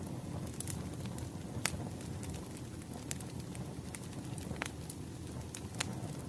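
Burning firewood crackling, with a steady low rumble of the fire and scattered sharp pops of the wood.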